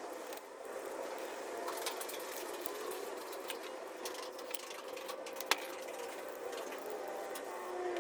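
Scattered sharp clicks and clinks of small tools and parts being handled, over a steady background hiss.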